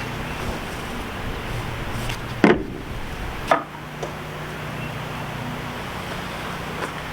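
Two loud sharp knocks about a second apart, then a smaller click, over a steady low hum.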